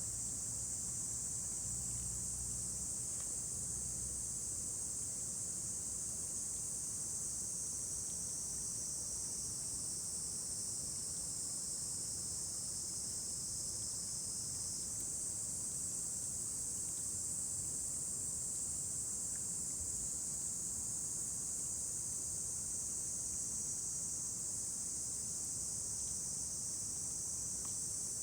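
A steady, high-pitched chorus of insects, crickets or similar, chirring without a break, with a few faint isolated crackles from a campfire.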